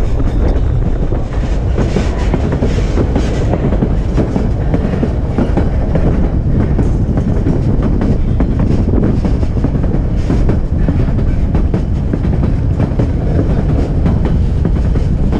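Narrow-gauge White Pass & Yukon Route passenger train running along the track, heard from beside the moving car: a steady rumble with the wheels clacking over the rail joints.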